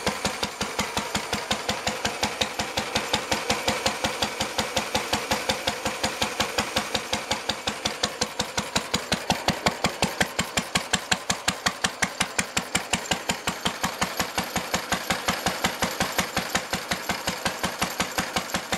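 Lister D single-cylinder stationary engine running at a steady speed with an even, rapid firing beat, belt-driving a generator that is producing power under a lighting load.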